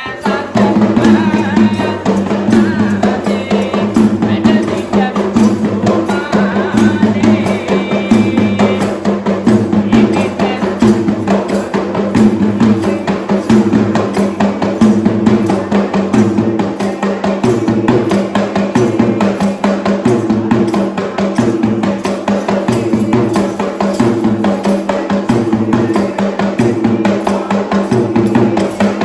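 Sri Lankan traditional drums played in a fast, dense, continuous rhythm. A few held higher tones sound above the drumming for roughly the first nine seconds.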